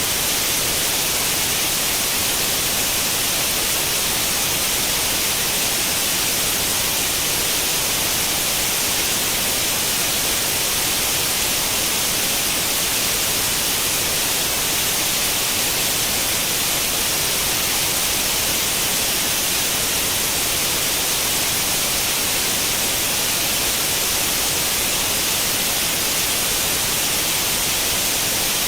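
Steady white noise like the static hiss of an old tube television tuned to no channel, even and unchanging, brightest in the treble.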